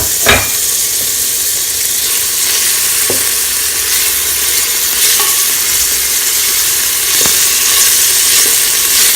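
Chopped onion, carrot and bell pepper sizzling in olive oil in a pot while being stirred, with a few knocks of the spoon against the pot, the loudest just after the start.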